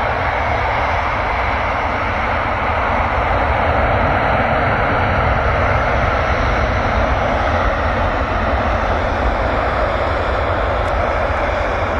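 Boeing 747's jet engines, a loud steady rush with a low rumble beneath, swelling slightly a few seconds in and easing a little toward the end.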